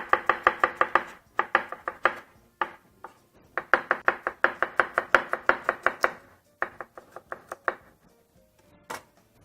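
Kitchen knife slicing onions on a chopping board: quick, even chops, several a second, in runs broken by short pauses, thinning out to a few separate chops near the end.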